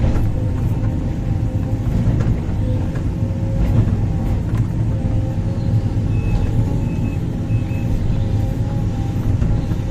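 Heavy hydraulic excavator, a Sumitomo 490, running steadily at work: a low diesel rumble with a steady whine over it. Three short high beeps sound about six seconds in.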